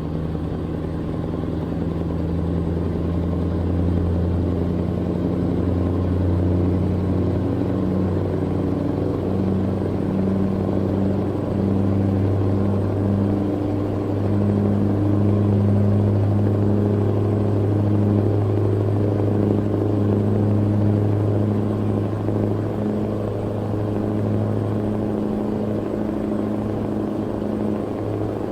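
Truck engine running at a steady speed while driving, a low even drone with slight shifts in pitch.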